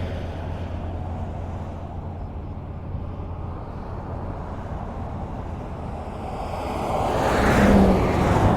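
Highway traffic: a steady low rumble of road noise, with one vehicle passing close near the end, its tyre noise swelling up to a peak.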